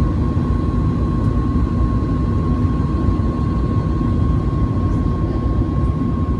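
Boeing 737 MAX 8's CFM LEAP-1B turbofan engines heard from inside the passenger cabin: a loud, steady rumble with a steady whine held on one pitch.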